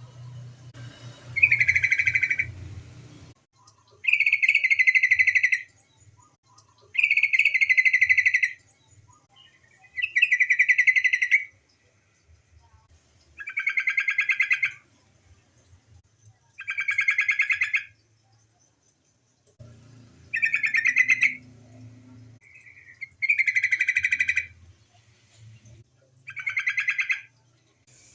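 Female yellow-vented bulbul (trucukan) giving its chattering call, a fast pulsed phrase about a second and a half long repeated nine times, roughly every three seconds.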